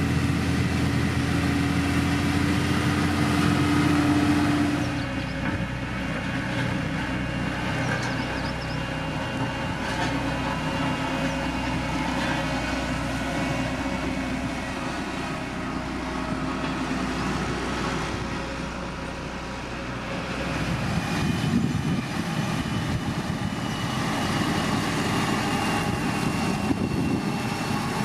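Diesel engines of heavy road-construction machinery running steadily, their sound changing abruptly about five seconds in and again about twenty-one seconds in.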